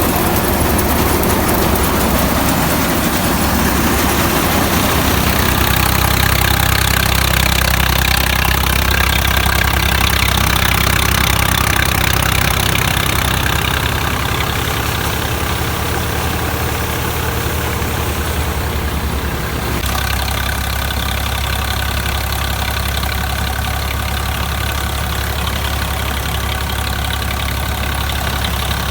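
Engine of farm machinery running steadily with a low, even hum, the sound shifting slightly about two-thirds of the way through.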